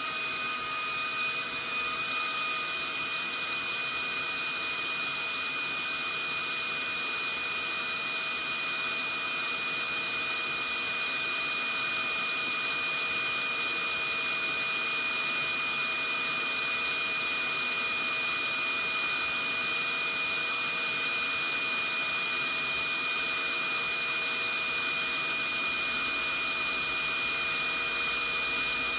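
Vacuum cleaner running steadily: a constant rush of air with a high, unchanging whine over it.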